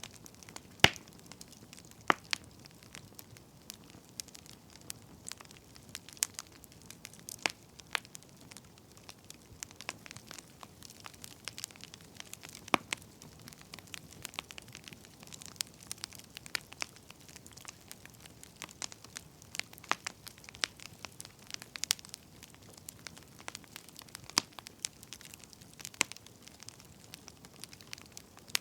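Wood fire crackling: irregular sharp pops and snaps, a few much louder than the rest, over a faint steady hiss.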